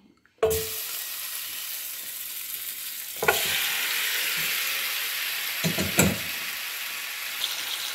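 Marinated chicken pieces hitting hot oil in a nonstick frying pan: a sudden sizzle starts about half a second in and runs on steadily. A few knocks come about three and six seconds in as more chicken goes in.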